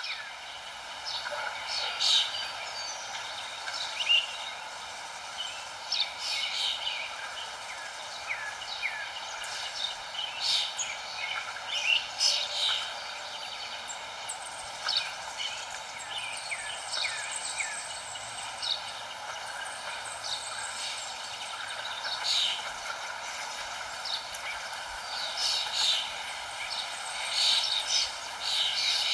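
Several birds chirping and calling in short, quick phrases, some notes sliding in pitch, scattered irregularly over a steady background hiss.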